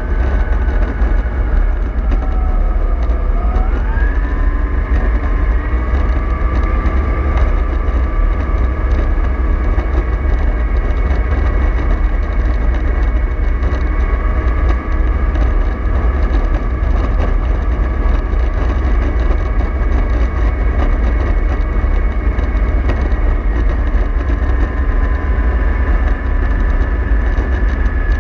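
MAN 24.310 bus running on the road: a steady low rumble with a whine from the engine and drivetrain that rises in pitch about four seconds in, then holds steady.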